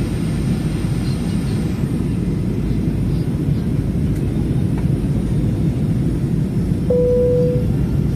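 Steady low roar of a Boeing airliner's engines and airflow heard inside the cabin during the descent to land. About seven seconds in, a single steady cabin chime tone sounds for about a second.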